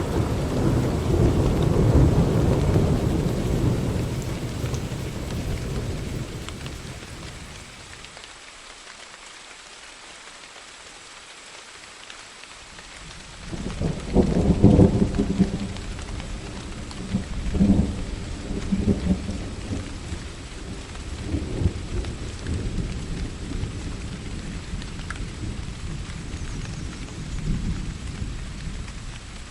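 Rain falling steadily with two rolls of thunder: the first rumbles and dies away over the first several seconds, and a second breaks in about halfway with a couple of sharp cracks before rumbling on and slowly fading.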